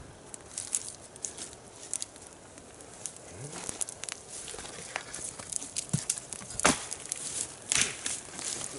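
Dry sticks crackling and snapping at a freshly lit campfire: scattered small cracks, with a few sharp, louder snaps in the second half.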